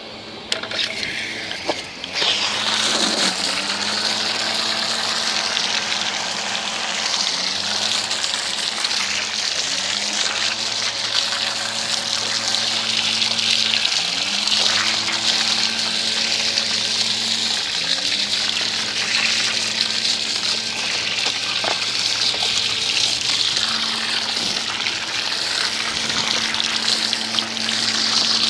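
Pressure washer rinsing with a steady hiss of spraying water. Its motor hum drops and climbs back up to speed about half a dozen times as the spray is stopped and started.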